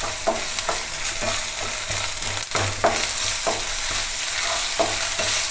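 Chopped onions, green chillies and ginger-garlic paste sizzling in hot oil in a non-stick kadai while a wooden spatula stirs them, scraping across the pan in quick repeated strokes with a short pause near the end. This is the sautéing stage where the ginger-garlic paste is fried in the oil.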